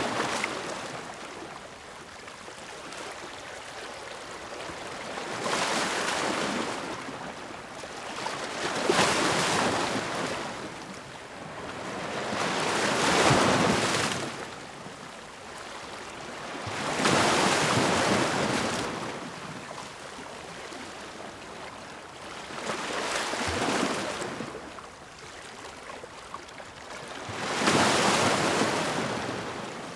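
Sea waves crashing against rocks. Six loud surges come a few seconds apart, with a steady wash of surf between them.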